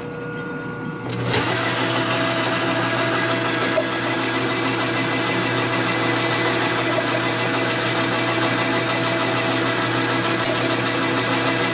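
Metal lathe taking a light cut on a bar under power feed, with cutting oil: about a second in the cut starts and a steady machining whir with a low hum runs on evenly.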